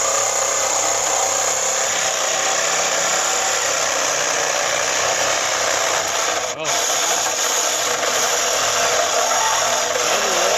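Cordless power saw cutting through metal tubing, running steadily with a brief pause about six and a half seconds in.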